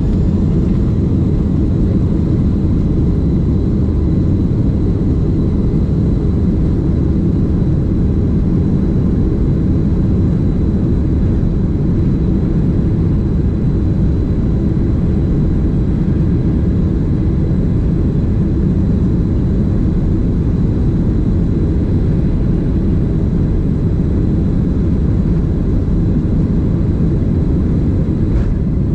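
Steady cabin noise of a Boeing 767 airliner: an even, loud rumble of jet engines and airflow, with faint steady high tones above it.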